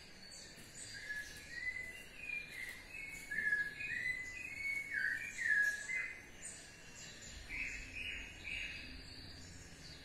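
Birds singing: a quick run of short whistled chirps and notes, some falling in pitch, densest in the first six seconds, with another cluster of chirps about three-quarters of the way through.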